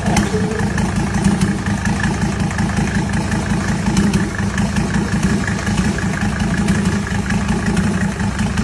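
Toyota Land Cruiser engine idling steadily.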